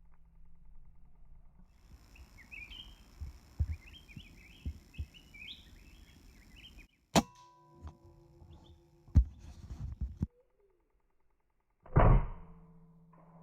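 Small birds chirping, then two sharp shots about two seconds apart, and a louder, longer burst near the end.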